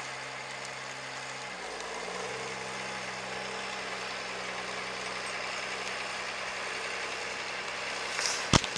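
A vehicle engine running steadily, its pitch shifting slightly about a second and a half in, with a couple of sharp clicks near the end.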